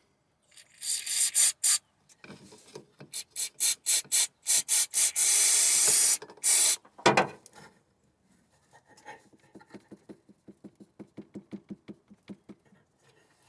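Aerosol can of mass airflow sensor cleaner spraying in short hissing bursts, then one long burst of about two seconds, cleaning a MAP sensor and its wiring connector. Faint quick ticking, about four a second, follows in the last few seconds.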